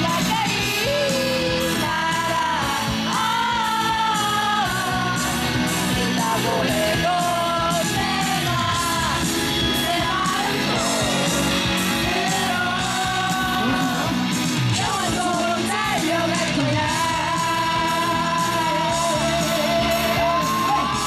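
Live rock band playing through a loud PA, with a singer holding long melodic lines over a steady drum beat.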